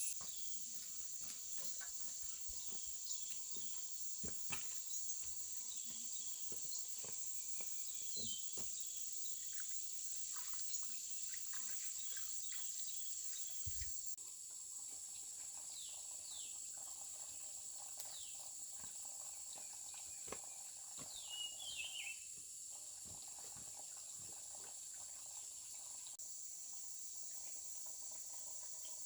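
Steady high-pitched insect chorus, with scattered faint clicks and a few short chirps over it.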